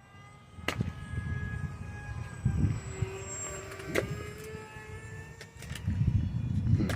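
Electric motor and propeller of an RC airplane in flight: a whine that drifts and glides in pitch over a low rumble that comes in about a second in, with a few sharp clicks.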